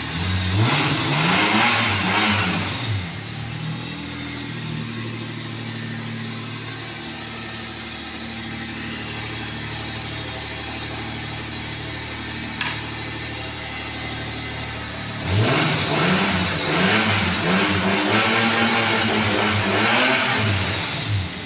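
Toyota Mark II JZX90's straight-six engine idling after three months standing unused, blipped up and back down a couple of times in the first three seconds. It then idles steadily, and from about fifteen seconds in is revved up and down repeatedly for some six seconds before settling back to idle.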